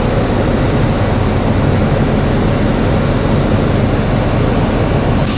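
Heavy construction machinery running with a steady, loud engine rumble.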